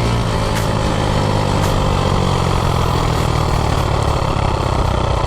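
Predator 212 single-cylinder engine on a modified minibike running steadily, with fading background music in the first moment.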